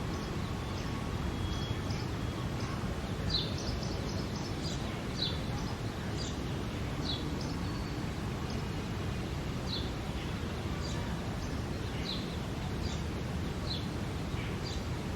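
Male house sparrow chirping over and over, short falling chirps every second or two: the constant chirping of a male in the breeding season. A steady low background rumble runs underneath.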